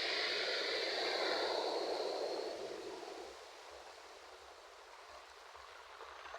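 Ocean waves washing onto a shore: a wave rushes in, then recedes and fades by about three seconds in, leaving a quieter wash until the next one starts to build near the end.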